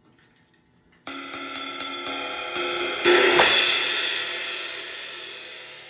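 A 16-inch Omete cymbal being played: a run of quick strikes starting about a second in, then a loud crash about three seconds in that rings on and slowly fades away.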